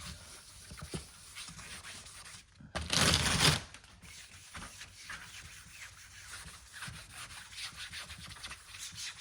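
Hand sanding with 400-grit paper on a sanding block, rubbed in repeated strokes over guide coat on UV primer on an aluminium car panel, blocking it down to show any low spots. There is a brief loud hiss about three seconds in.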